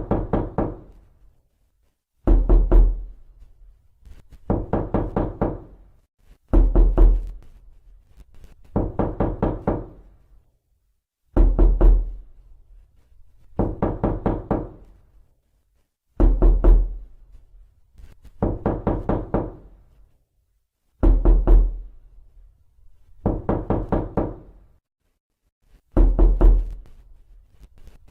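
Knocking on a door: quick runs of four or five knocks, a new run about every two seconds, many runs opening with a heavier low thud.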